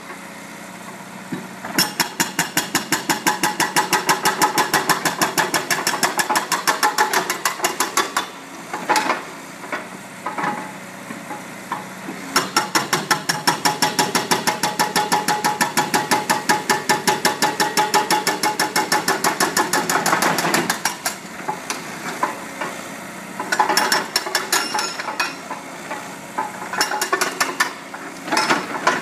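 Hydraulic breaker (Montabert 501) on an excavator hammering a concrete slab: fast, evenly spaced blows in two long runs of several seconds and a few short runs near the end. The excavator's diesel engine hums between the runs.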